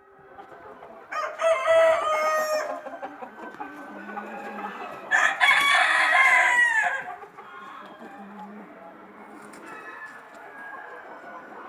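Country (desi) chicken roosters crowing twice, each crow loud and about one and a half to two seconds long, the second about three seconds after the first. Hens cluck and chatter steadily underneath.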